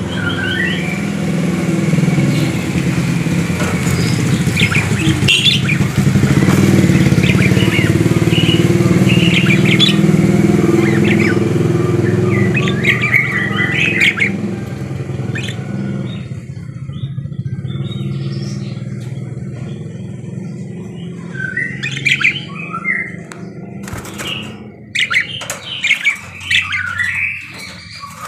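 Budgerigars chirping and chattering in short warbling notes, over the steady hum of an engine that fades away about halfway through. Near the end the chirps come quicker and sharper, with squawks.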